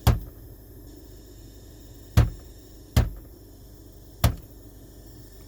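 Four sharp knocks, unevenly spaced, of a hand striking a radio to knock loose a noise fault in the sound system, over a steady low background.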